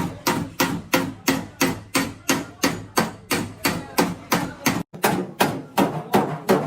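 Hammer beating a car body panel, steady blows about three a second, each with a short metallic ring, broken by a brief gap about five seconds in.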